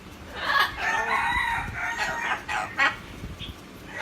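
A bird giving a long crowing call like a rooster's, lasting about two seconds, followed by two short sharp calls.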